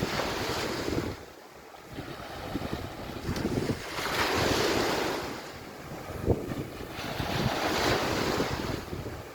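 Sea waves washing onto the beach, the surf swelling and fading every three to four seconds, with wind buffeting the microphone. A brief sharp knock about six seconds in.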